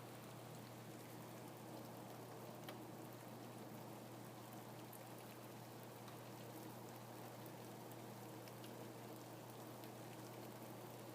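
Faint, steady rain, with scattered individual drops ticking sharply over an even hiss.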